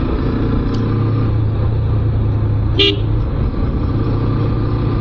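Suzuki Gixxer motorcycle engine running steadily in third gear, with wind and road noise. About three seconds in, a vehicle horn toots once, briefly.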